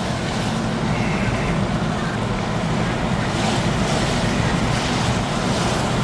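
Storm wind rushing over the microphone: a loud, steady roar of noise with a low rumble underneath.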